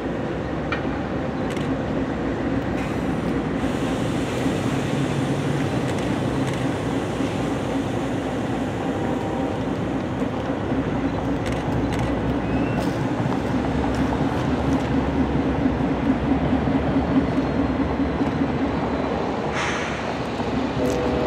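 Diesel-electric freight locomotives running as they pull a train of covered hoppers, a steady engine drone with occasional clicks from the wheels on the rails. A brief hiss comes near the end.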